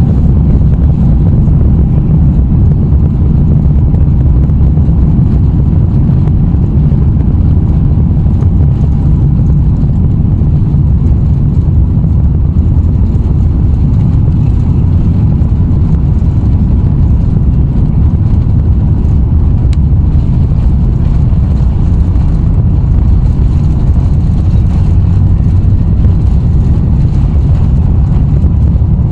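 Airbus A350-900's Rolls-Royce Trent XWB engines at take-off thrust, heard inside the passenger cabin as a loud, steady low rumble with airflow hiss.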